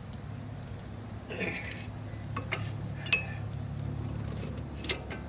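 A few light metallic clinks and clicks as brake pads and caliper hardware are handled and seated, the sharpest one near the end, over a steady low hum.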